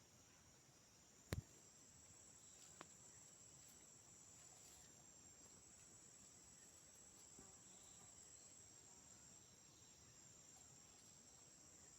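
Faint, steady, high-pitched chorus of insects such as crickets in the forest. A single sharp knock about a second in, and a fainter tick shortly after.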